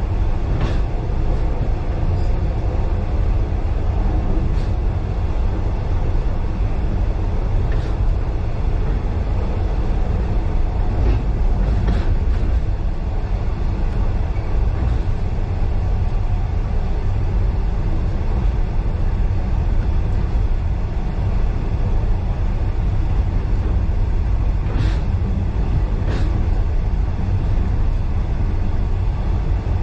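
Passenger train rolling along on the rails: a steady low rumble of wheels on track, with a few sharp clicks now and then.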